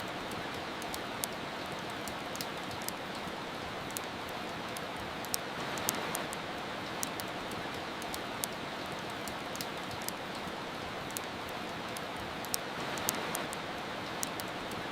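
Steady rain with a wood fire crackling over it in sharp, irregular pops, a few each second.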